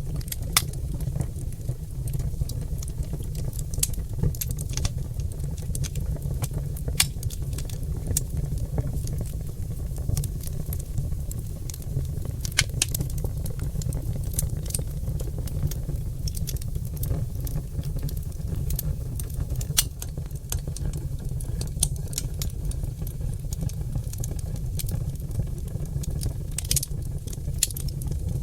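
Oak log fire in a fireplace crackling, with irregular sharp pops over a steady low rumble.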